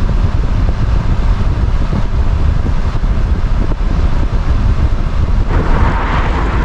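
Wind buffeting a GoPro's microphone: a loud, steady low rumble, with a brighter rushing hiss joining about five and a half seconds in. It is the wind noise the GoPro's side microphone records in strong wind.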